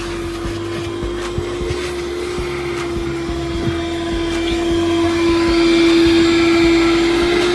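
Vacuum cleaner running steadily with a constant motor whine, getting somewhat louder about five seconds in as it is used on a car's interior.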